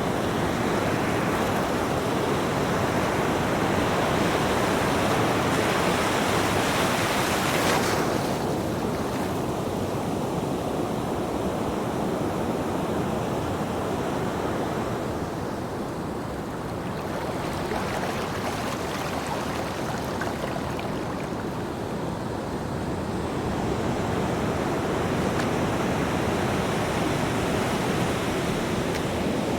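Ocean surf: waves washing in with a continuous rush that swells and recedes, the hiss of one breaking wave falling away about eight seconds in and building again near the end.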